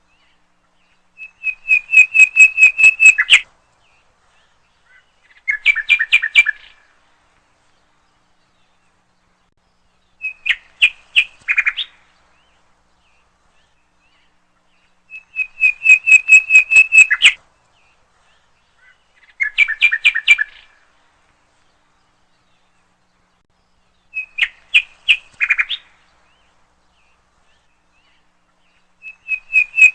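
A songbird repeating the same short phrase of rapid chirps, each burst about two seconds long, seven times with quiet gaps of a few seconds between.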